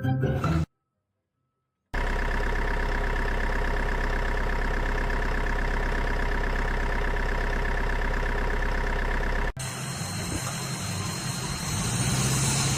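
Background music ends, followed by about a second of silence. Then an engine runs steadily at an even speed, and a little after nine seconds the sound cuts to a different, noisier engine with a low hum that rises slightly.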